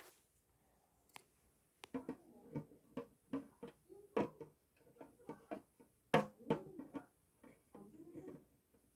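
Irregular small knocks, clicks and rustles of items being handled and fitted into a terrarium, starting about two seconds in.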